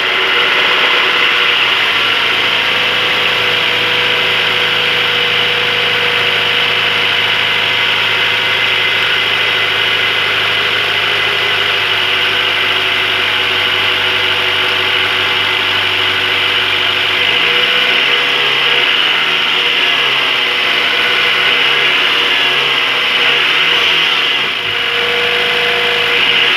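Car engine idling steadily just after being started on a full set of new main and connecting-rod bearings, fitted to cure a rod-bearing knock. From about two-thirds of the way in it is revved up and down several times.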